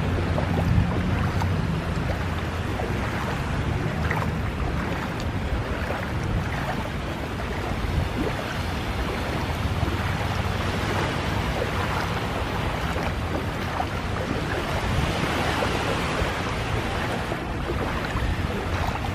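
Motorboat under way: a steady low engine rumble under rushing water and wind buffeting the microphone.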